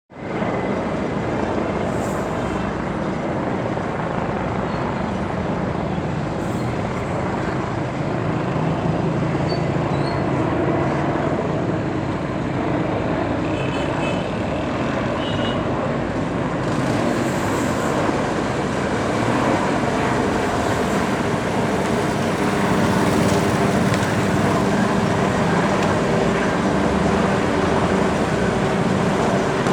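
Helicopter flying overhead, its engine and rotor noise steady throughout and growing a little louder in the last third.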